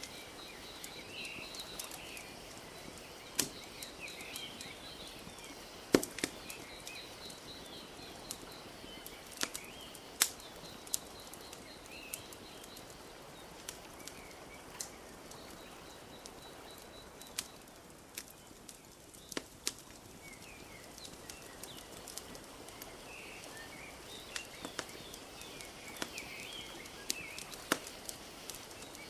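Wood fire crackling, with irregular sharp pops scattered throughout, over a steady wash of gently lapping lake water. Small birds chirp and trill faintly in the background.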